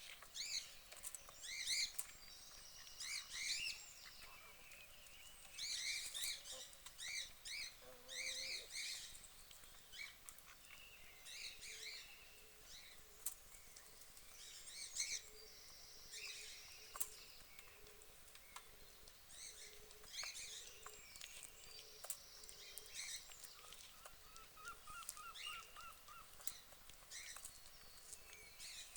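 Birds calling: clusters of short, high chirps, busiest in the first nine seconds, with a faint run of softer, lower calls in the second half.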